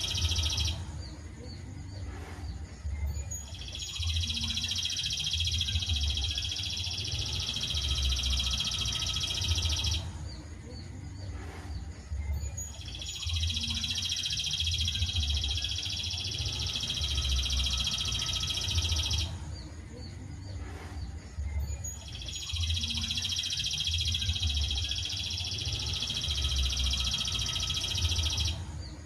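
Recorded songbird song played as a bird-training track: three bouts of rapid, high, continuous chattering trill, each about six seconds long, separated by short pauses. A low pulsing rumble runs underneath.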